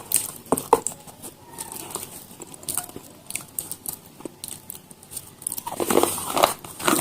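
Close-miked eating sounds: small crisp clicks and crackles of chewing, with a run of louder crunching bites near the end.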